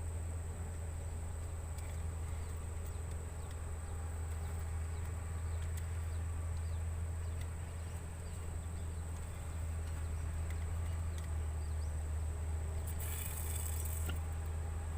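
Insects droning steadily on one high tone, with a steady low rumble underneath. A short noisy burst lasting about a second comes near the end.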